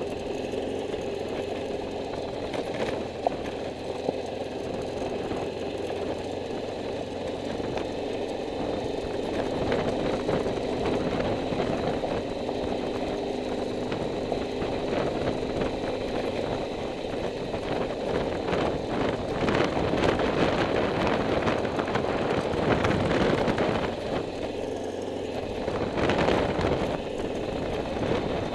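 Motorcycle engine running steadily while under way, with road and wind noise. It grows louder and rougher from about ten seconds in.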